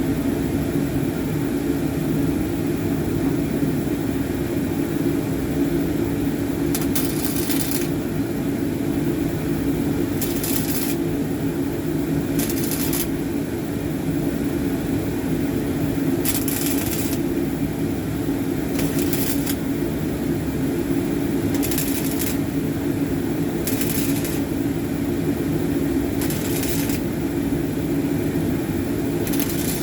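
Welder laying short tack welds on a sheet-metal floor-pan patch: about nine brief crackling sizzles, each under a second, spaced a few seconds apart, over a steady low hum.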